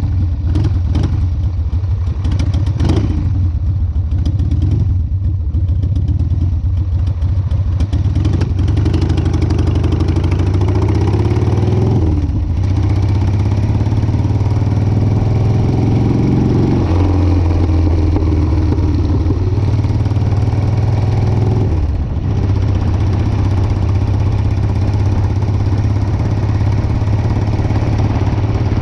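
2002 Harley-Davidson Sportster 1200's Evolution V-twin running through drag pipes while riding, the pitch climbing as it pulls and dropping briefly at gear changes about twelve and twenty-two seconds in.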